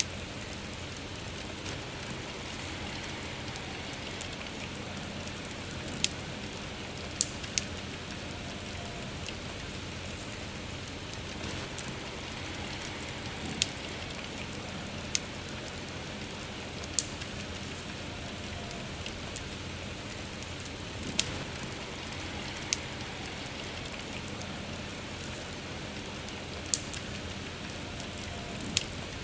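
Steady rain with a campfire burning, its wood giving off sharp, irregular crackles and pops every second or two.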